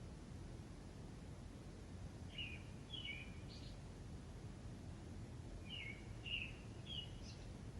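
Small songbird chirping: short, quick notes with falling steps, in two bursts of two or three chirps each, over a steady low background rumble.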